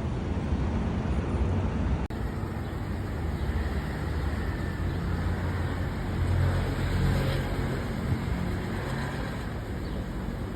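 Steady outdoor background noise, a low rumble like road traffic, with a brief dropout about two seconds in.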